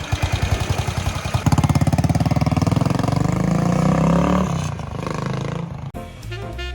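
Motorcycle engine running with a rapid, even beat. About a second and a half in it is revved, the pitch rising and then falling back. Near the end the sound cuts abruptly.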